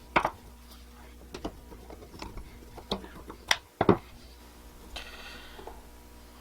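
Scattered sharp clicks and light knocks of small metal parts and tools as a Honda Rebel 250 carburetor is taken apart by hand. There are about six of them, the loudest a quick pair a little past the middle.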